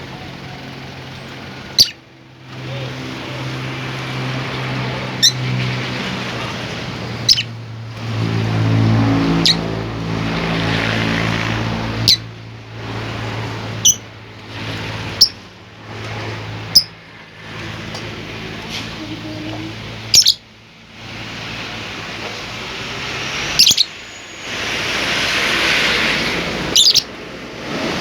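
A pet bird giving short, sharp single chirps every two to three seconds, about eleven in all, each the loudest sound around it. Under them runs a steady low hum and background noise.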